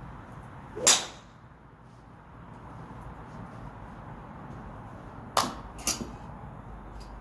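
Golf club striking a ball: a sharp crack about a second in, then two more cracks about half a second apart near the end.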